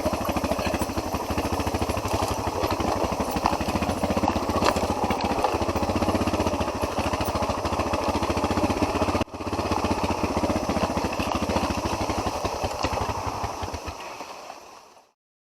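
Off-road motorcycle engine running steadily at low speed with a fast even beat of firing pulses, with a brief break about nine seconds in; it fades out near the end.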